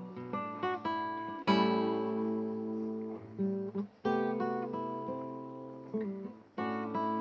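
Acoustic guitar being played: chords strummed and left to ring out, the strongest about a second and a half in, with single notes picked between them.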